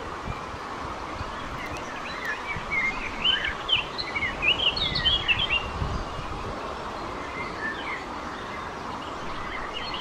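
A small bird chirping in a quick run of short, high, sliding notes between about two and six seconds in, with a few fainter chirps near the end, over a steady hiss.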